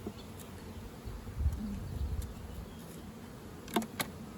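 Honeybees buzzing in a steady hum around an opened hive, with a low rumble about a third of the way in and two sharp clicks close together near the end.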